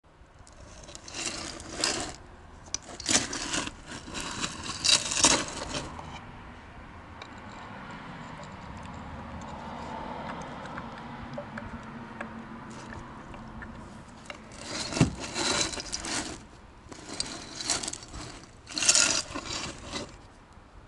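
Saab 9-5 2.3t's turbocharged four-cylinder engine running with a failing turbocharger, giving bursts of harsh scraping, rattling noise in the first six seconds and again near the end, with a quieter, steadier running sound in between: the sound of a turbo that is breaking down.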